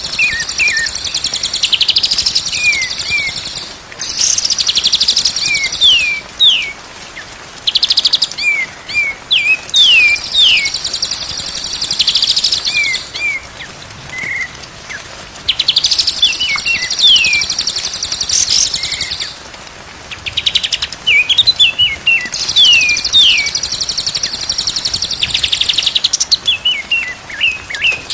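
Songbird song: bursts of rapid, high buzzy trills lasting a second or two alternate with runs of short down-slurred whistles, repeating over and over with brief pauses.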